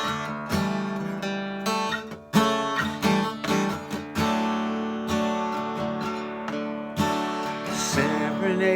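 Acoustic guitar strumming chords in an instrumental break, a fresh stroke about every half second to second, with no singing.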